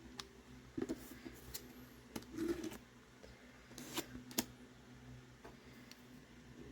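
Faint scattered clicks and a few short scrapes from handling nail-stamping tools: plate, scraper and stamper.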